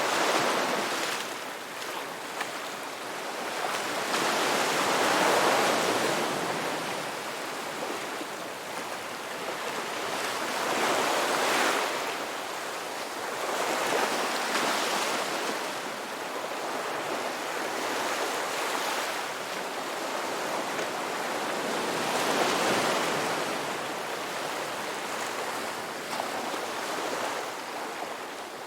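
Ocean surf: waves breaking and washing ashore, the rush swelling and ebbing every five or six seconds.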